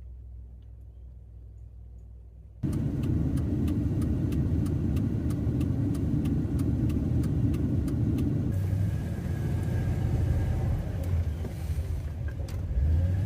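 Steady low rumble of a car driving, heard from inside, starting abruptly a couple of seconds in after a faint low hum. For several seconds there is a regular light ticking, about three ticks a second.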